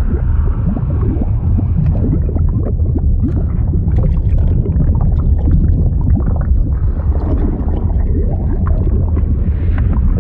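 Liquid bubbling and gurgling, a steady low rumble with many small pops all through.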